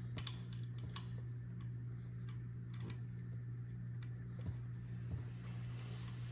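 Scattered light clicks and taps, irregularly spaced, as small screws are fitted into the 3D printer's frame during assembly, over a steady low hum.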